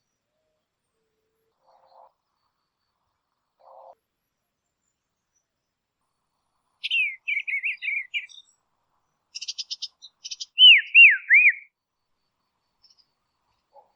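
A songbird singing: a quick run of warbled notes about halfway through, a few dry clicking notes, then three loud swooping whistles near the end.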